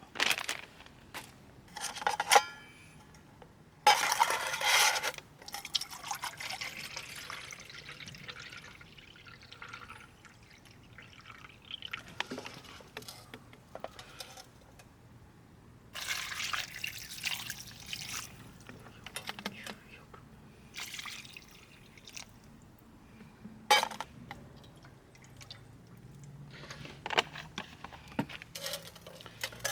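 Liquid being poured, in several separate short pours.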